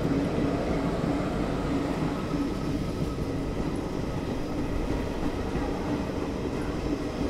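Passenger train running on the track, heard from on board: a steady rumble of wheels on rails.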